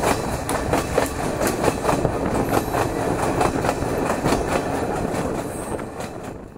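Passenger train running along the track, its wheels clicking over the rails in a rapid irregular stream over a steady rumble, heard from just outside the carriage. The sound fades out near the end.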